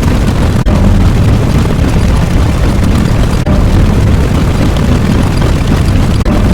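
Loud, dense rumbling sound effect of the explosion or eruption kind, heaviest in the low end. It breaks off for an instant three times, about every three seconds.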